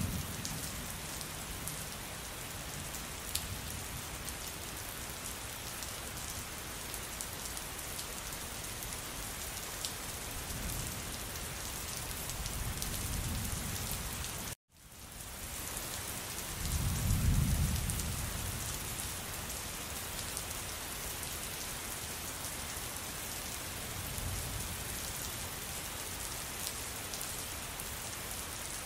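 Steady rain falling, with several low rolls of thunder, the loudest about two-thirds of the way through. About halfway the sound cuts out for a moment and fades back in.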